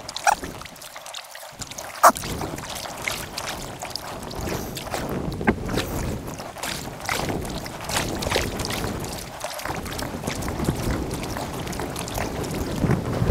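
Kayak paddling on a river, sped up in time lapse: quick, irregular splashes and drips of paddle blades dipping into the water, with one sharper knock about two seconds in.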